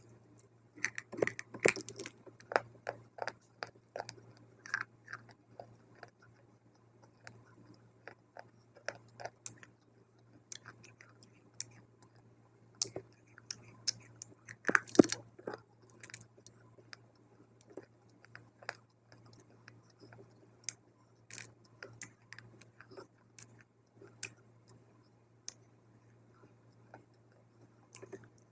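Dry multani mitti (fuller's earth clay) being bitten and chewed close to the microphone: irregular sharp crunches, thickest in the first few seconds, with the loudest bite about fifteen seconds in.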